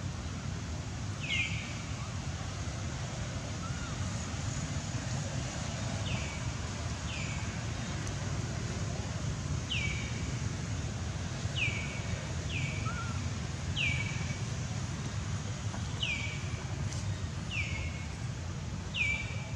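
A bird gives short, high chirps that drop in pitch, about ten of them spaced a second or two apart, over a steady low rumble of wind or distant background noise.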